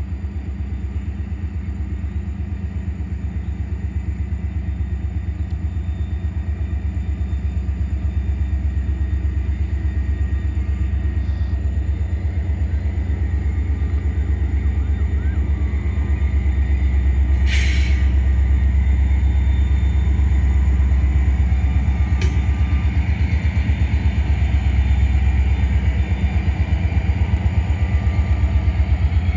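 Freight train passing, a steady heavy low rumble that slowly grows louder. A brief hiss comes a little past halfway, and a sharp click a few seconds after it.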